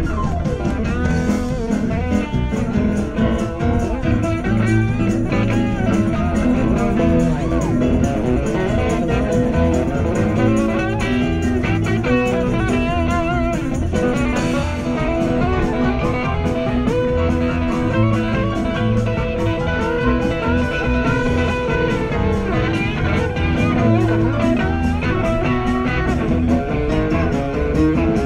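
Live blues-rock band playing an instrumental break: a lead guitar plays a solo with bent, wavering notes over bass and a steady drum beat.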